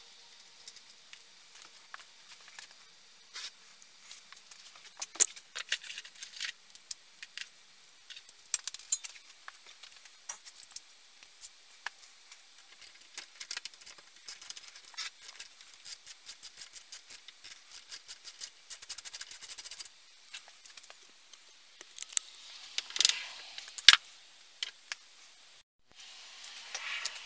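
Hand work on a vintage chainsaw: scattered sharp metallic clicks, clinks and scrapes of tools and small parts, with a fast, even run of clicks for a few seconds past the middle and a louder cluster of knocks near the end.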